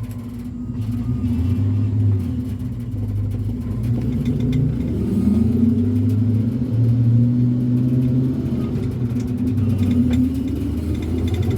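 1988 Chevrolet C30's 454 big-block V8 pulling the truck under acceleration, growing louder over the first few seconds. Its pitch shifts in steps and rises again near the end.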